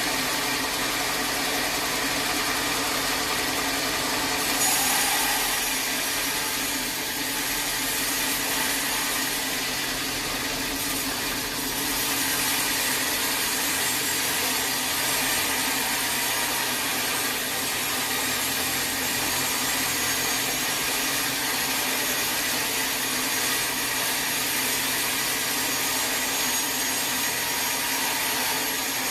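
Sawmill saw running steadily through wood, with a motor hum underneath and a brief swell in the cutting noise about four and a half seconds in.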